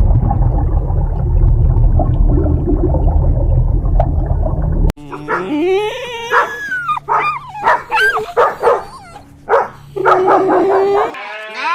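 A dog, likely a puppy, whimpering and yipping in short, high-pitched whines that glide up and down, starting about five seconds in. Before that comes a loud, low rumbling noise with no clear calls.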